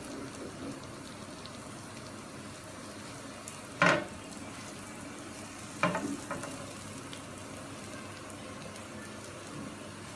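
Wrapped shawarma sandwiches sizzling softly and steadily on a hot oiled griddle, the bread toasting to seal the rolls shut. Two brief louder bursts come about four and six seconds in as rolls are laid down and pressed onto the griddle.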